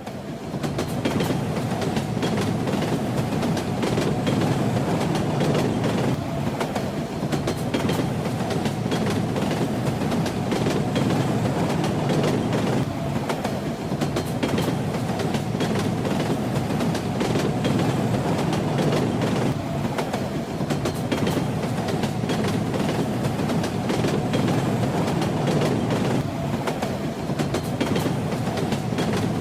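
Train running steadily on the rails: a continuous low rumble with the clickety-clack of the wheels over the track.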